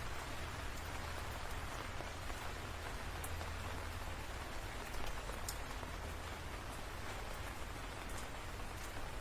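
Steady rain falling, with a few sharper individual drops ticking through it.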